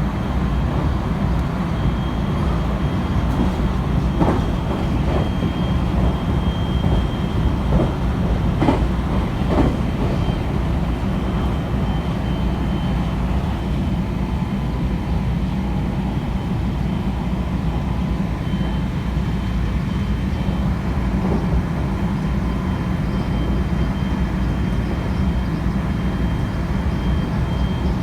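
Inside a JR West 223 series 0 electric train running at speed: a steady low rumble of wheels on rail, with a thin steady high whine over it. A few short clacks come between about four and ten seconds in.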